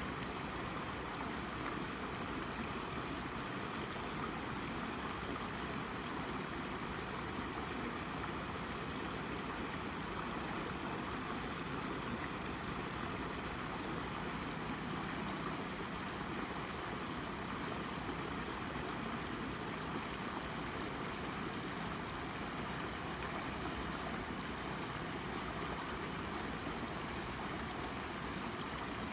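A shallow brook babbling and trickling over a rock, a steady, even rush of water with no change.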